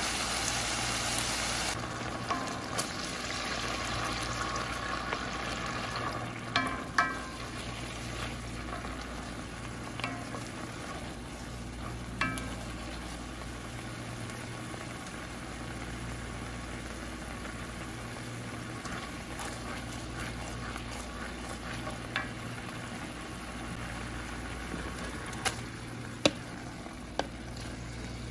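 Onion slices sizzling in oil in an enamel pot, loudest for the first two seconds, then a quieter simmer once the soy sauce and lemon juice marinade is in. A wooden spoon stirs and knocks sharply against the pot about ten times.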